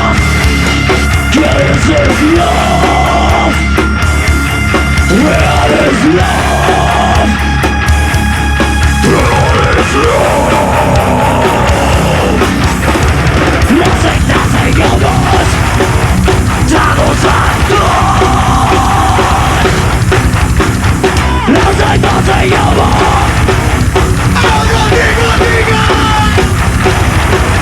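Live nu-metal band playing loud and without a break: distorted electric guitars, bass and drums. Held guitar notes ring over the riff for roughly the first ten seconds.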